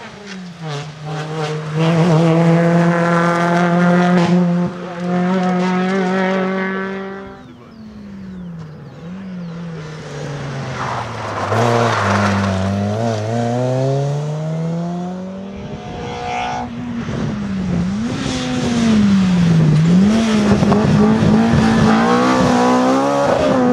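Rally car engines at high revs as cars pass. One car holds a steady high note for several seconds, then the pitch drops. A second pass falls in pitch, and near the end an engine revs up and down repeatedly under throttle changes.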